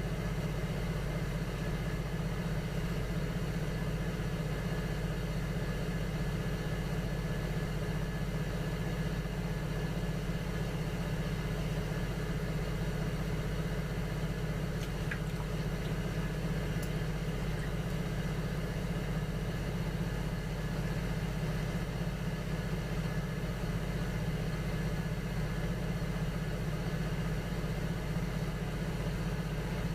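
Electric potter's wheel motor running at a steady speed, a constant low hum with a faint whine above it.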